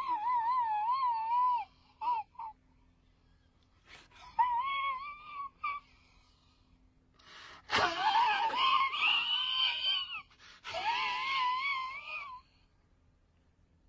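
A person wailing in distress: several long, high cries with a quickly wavering pitch, broken by short silences, with a gasp-like noise before the longest cry about halfway through.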